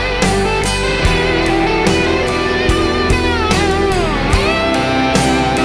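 Instrumental break of a country-rock song: electric guitar over a steady drum beat, with one guitar note sliding down and back up in pitch about four seconds in.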